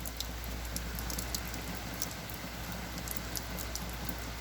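Heavy rain falling steadily, pattering on the porch, with scattered sharp drip ticks through the steady hiss.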